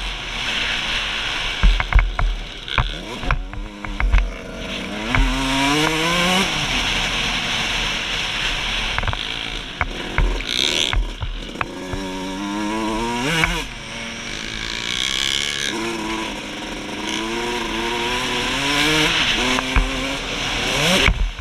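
2003 Suzuki RM125's two-stroke single-cylinder engine revving up and dropping back again and again as it works through the gears, with wind noise on the microphone. Sharp thumps from bumps and landings come in quick succession in the first few seconds.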